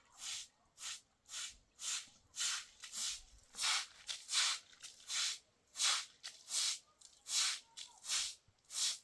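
Hand saw cutting wood in steady back-and-forth strokes, a hissing rasp about three times every two seconds.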